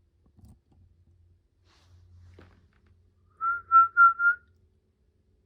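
A person whistling four short notes at the same pitch in quick succession, calling to an emu chick inside its egg.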